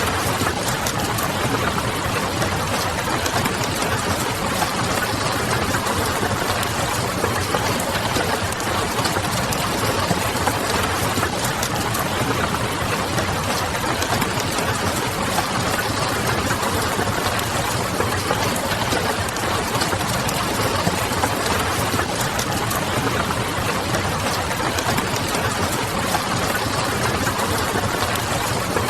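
Steady rain mixed with the crackle of a wood fire and a low, distant city hum.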